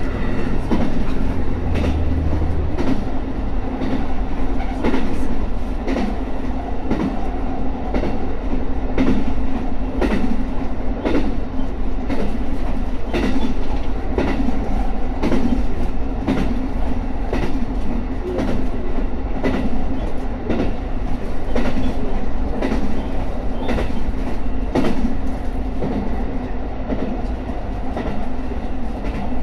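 JR Hokkaido local train running between stations: wheels clack over rail joints again and again, often in quick pairs, over a steady drone of the running train.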